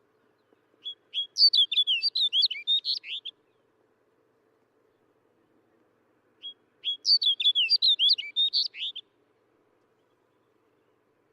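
Snow bunting singing: two short, fast song phrases of rapid high sweeping notes. The first starts about a second in and the second about six and a half seconds in, each lasting about two and a half seconds.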